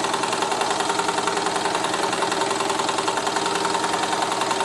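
Bing No. 130 toy steam engine running smoothly on live steam: a fast, even beat from the small engine, with a steady tone over it.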